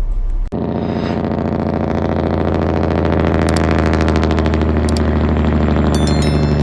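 A heavy engine running with a rapid, even pulse. It starts abruptly about half a second in and grows slightly louder, and a few high electronic tones come in near the end.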